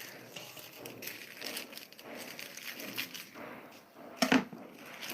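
Close-up chewing and crunching of food, with many small wet clicks and crackles from the mouth. A louder, sharper crunch or smack comes about four seconds in.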